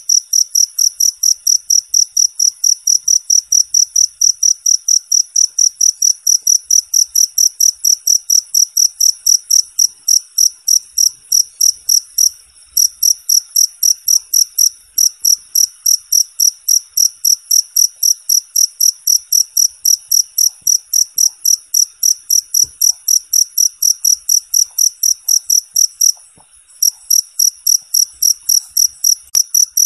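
Cricket chirping in a steady, rapid rhythm of about three high-pitched chirps a second, with a few short pauses.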